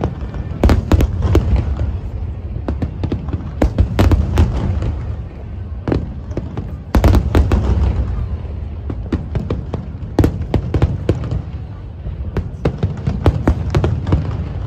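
Aerial fireworks display: shells bursting in rapid volleys of sharp bangs over a constant low rumble, with the loudest cluster about halfway through.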